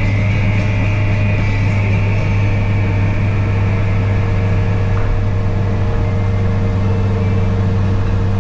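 Steady engine and road drone heard inside the cab of a moving Mazda Bongo Brawny fire truck.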